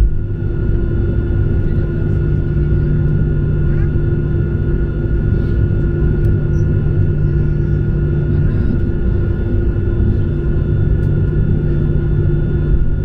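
Boeing 737-800 cabin noise during takeoff: the CFM56 engines' steady rumble with a steady whine over it.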